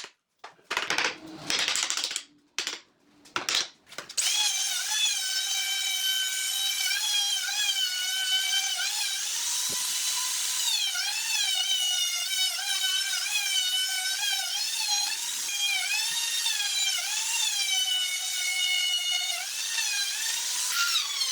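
Handheld electric power tool starts with a few short bursts. About four seconds in it settles into a steady motor whine whose pitch repeatedly sags and recovers as the tool comes under load.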